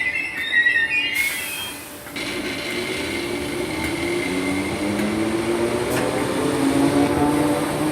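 Merseyrail Class 508 electric train at the platform: its brakes squeal high as it comes to a stop, and a short hiss of air follows about a second in. After that, the train's steady hum continues, with several low tones slowly rising in pitch.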